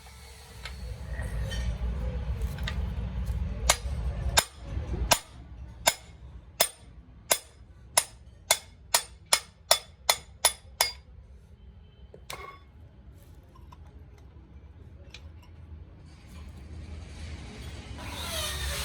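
A low rumble for the first few seconds, then about a dozen sharp metallic clinks that come faster and faster, each with a short ring, followed by a faint low hum.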